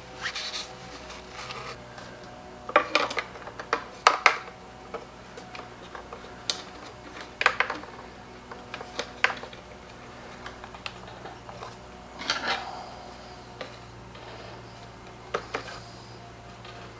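Small metal carburetor parts and hand tools clicking, tapping and rubbing as a leaf blower's carburetor is taken apart and refitted, with a steady low hum underneath.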